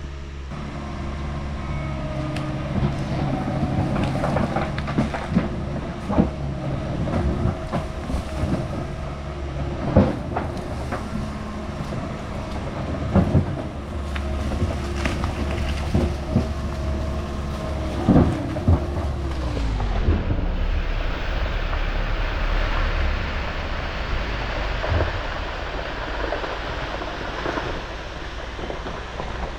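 Heavy diesel machine engine running under load, with repeated knocks and clanks as a large oak stump is dragged and shoved toward a drop-off. About two-thirds of the way through the engine note falls away and a steady rumble with hiss takes over.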